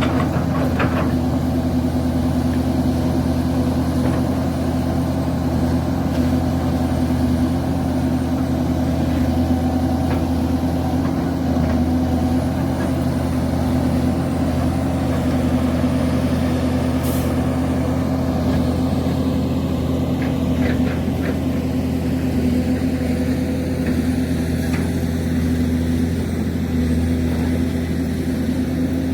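Link-Belt excavator's diesel engine running at a steady speed, with a short high hiss about 17 seconds in and a few faint clicks a few seconds later.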